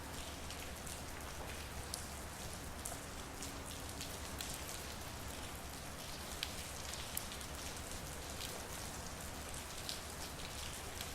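Rain falling steadily on a street, a constant hiss with individual drops ticking sharply and irregularly on nearby surfaces, over a low steady hum.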